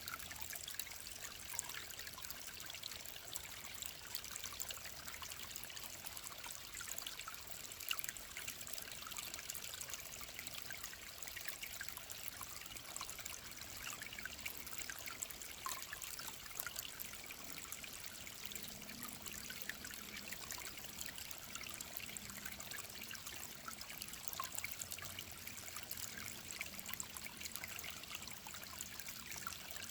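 A clear mountain stream trickling and babbling steadily over rocks, with many small splashes.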